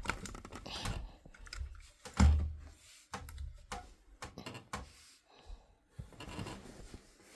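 Scattered light clicks and knocks, with one louder low thump about two seconds in.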